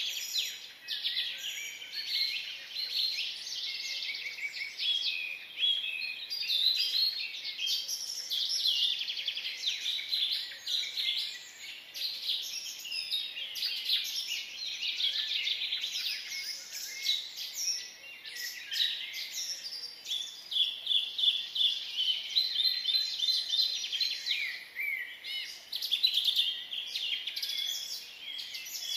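Many small birds chirping together: a continuous chorus of short, high, overlapping chirps.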